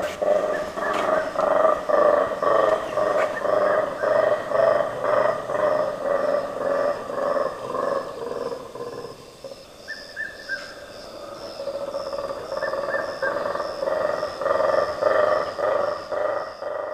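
Black-and-white colobus monkeys roaring in chorus: a long run of rhythmic pulsed calls, a few a second, easing briefly about nine seconds in before building again.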